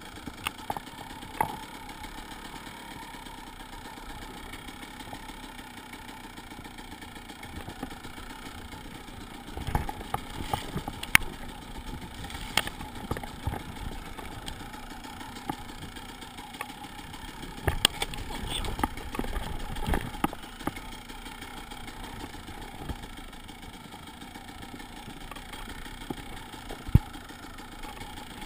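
Enduro motorcycle engine idling steadily, with scattered knocks and clicks, clustered about ten seconds in and again around eighteen to twenty seconds, and one sharp knock near the end.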